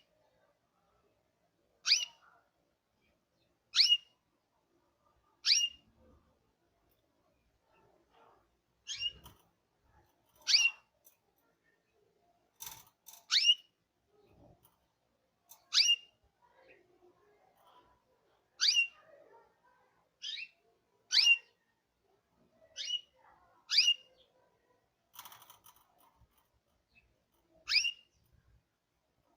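A canary giving short, sharp single call notes, each a quick high chirp falling in pitch. About fourteen come one at a time at uneven gaps of one to four seconds.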